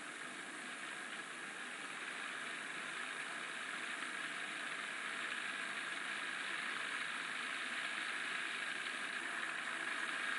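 Steady, even hiss that slowly grows louder.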